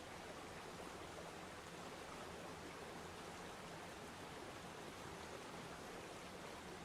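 Waterfall: water falling and rushing in a steady, even hiss that neither rises nor falls.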